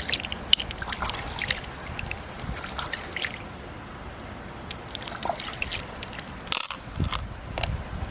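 Water sloshing and trickling, with scattered small splashes and clicks.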